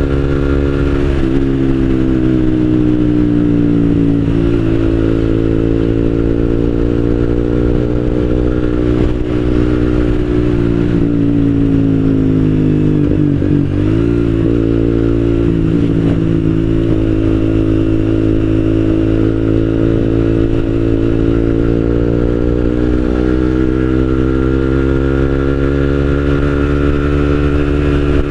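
Exhaust note of a Suzuki GSX-R150's single-cylinder engine through an aftermarket Akrapovic-style slip-on muffler without its dB killer, heard while riding. The engine's pitch rises and falls gradually with the throttle, with a short dip and wobble about halfway through. The note is described as mellow and bassy.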